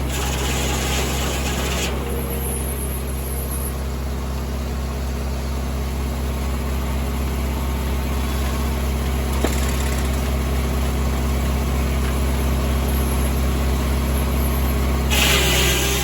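Tractor engine running steadily, driving a 1950 Corley circular sawmill, with a brief burst of hiss in the first two seconds and again near the end.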